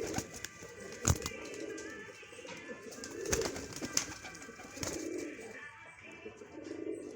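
Domestic pigeon cooing over and over in low, rounded coos about every second and a half: the driving coo of a young male pigeon pushing a hen. A couple of sharp knocks, the loudest about a second in.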